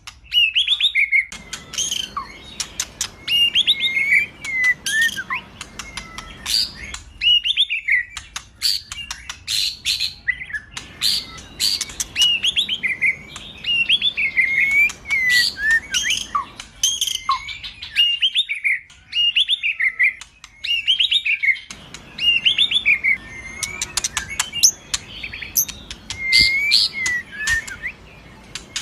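White-rumped shama (murai batu) singing: varied whistled phrases that swoop and slide in pitch, mixed with rapid sharp ticking notes, repeated over and over with only brief pauses.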